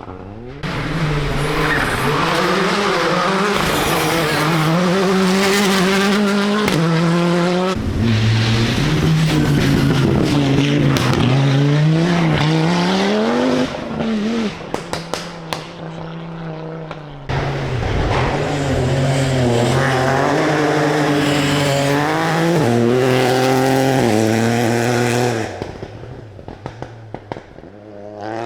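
Rally car engines accelerating hard through the gears, the pitch climbing and dropping back at each upshift, in two long runs. When the driver lifts off after each run, the exhaust pops and crackles.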